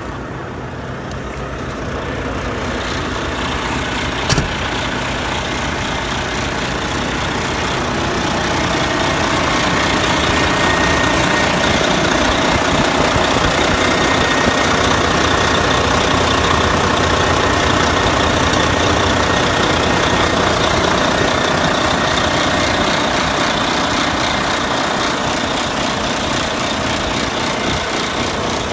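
Volvo D13 inline-six diesel engine of a heavy truck idling steadily just after starting, getting louder over the first ten seconds or so and then holding. There is a brief click about four seconds in.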